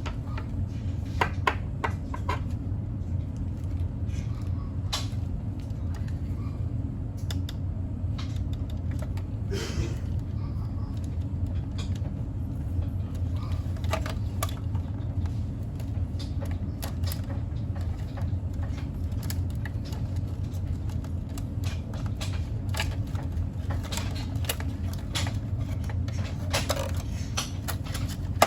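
Steady low background hum with scattered light clicks and knocks throughout.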